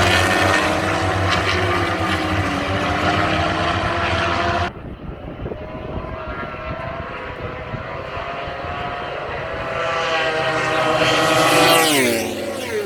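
Superbike racing motorcycles' engines running at high revs, several machines at once. About five seconds in, the sound drops suddenly and loses its top. Near the end one bike swells up and passes, its engine note falling steeply as it goes by.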